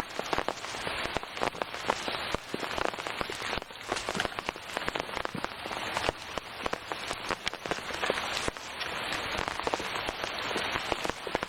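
Steady rain falling, with many sharp drop hits close to the microphone.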